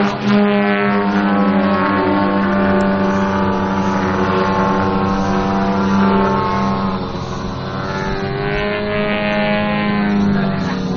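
Engines and propellers of two large-scale Krill Extra 330SC model aerobatic planes flying in formation, a loud steady drone with a slowly shifting, phasing tone. It eases slightly about two-thirds of the way through, then swells again.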